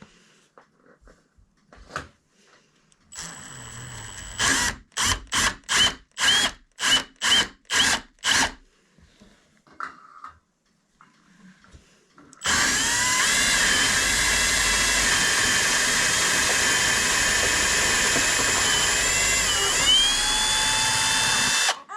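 Electric drill with a sharp bit boring holes: about ten short trigger pulses, a couple a second, then one steady run of about nine seconds with a brief dip in pitch shortly before it stops.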